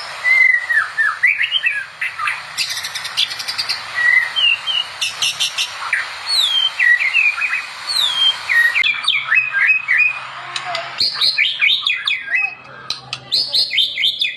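White-rumped shama (murai batu) singing continuously, a varied song of whistled glides and slurred notes mixed with rapid chattering runs.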